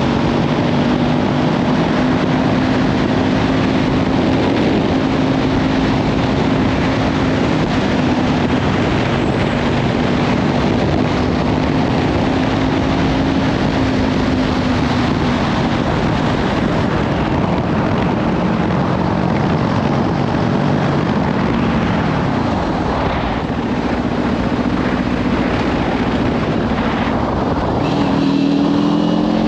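Kawasaki Ninja 500 parallel-twin engine through a Leovince slip-on exhaust, under way at steady revs for the first half. Its note then wavers and drops away before climbing again near the end. Heavy wind noise on the microphone rushes over it throughout.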